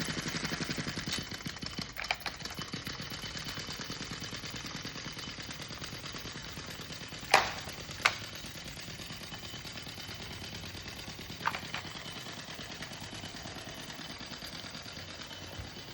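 Small homemade model steam engine running, its exhaust chuffing in a rapid, even beat with a light mechanical clatter. A few sharp clicks cut through it, the loudest two close together near the middle.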